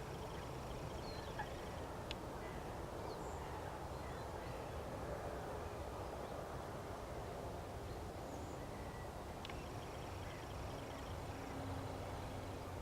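Wetland birds calling faintly and intermittently over a steady outdoor background hiss, with short high calls scattered through and a faint rapid ticking series of high notes near the end.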